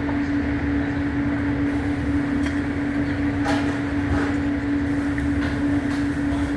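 Steady mechanical hum inside a car's cabin, holding one constant tone over a low rumble, with a few faint clicks.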